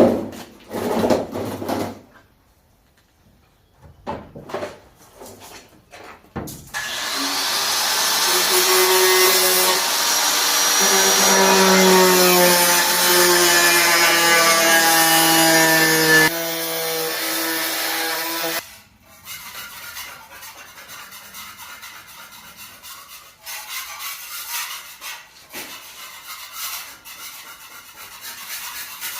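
A power tool running under load for about twelve seconds, its pitch slowly sagging, with scattered knocks and scraping of work before and after.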